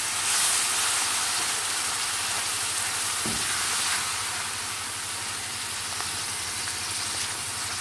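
Puréed tomatoes frying in hot oil with lightly browned onions in a non-stick pan, stirred with a wooden spatula: a steady sizzling hiss that eases a little partway through, with one light knock about three seconds in.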